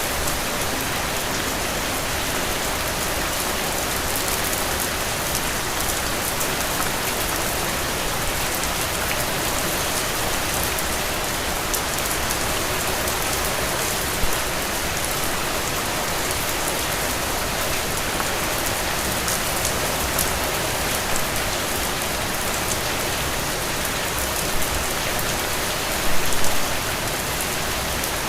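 Heavy rain falling steadily in a dense, even patter. A few louder taps stand out, one about halfway through and a short cluster near the end.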